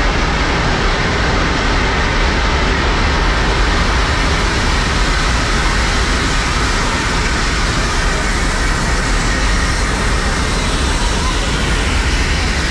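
Steady loud rumble of a Nilgiri Mountain Railway toy-train coach running on its rails through a stone-lined tunnel, heard from the coach's open window.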